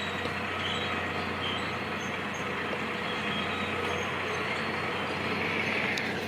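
Heavy diesel construction machinery running steadily under a constant low hum, with a few faint, short high squeaks.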